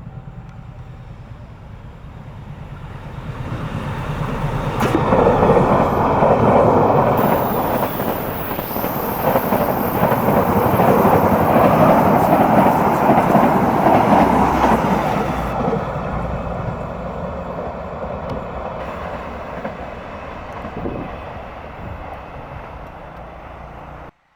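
Train passing close by, its wheels and carriages rumbling on the rails. The sound builds over a few seconds, stays loud for about ten seconds with a faint high whine, then fades and cuts off abruptly near the end.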